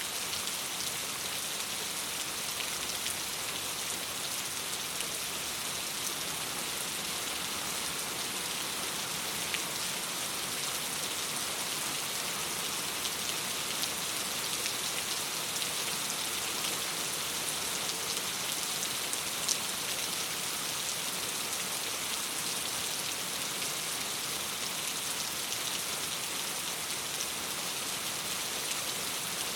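Steady rain against a window: an even hiss with scattered faint ticks of individual drops.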